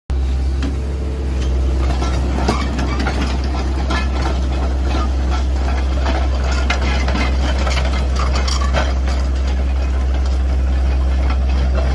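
Heavy truck engine idling with a deep, steady drone, with scattered clicks and knocks over it.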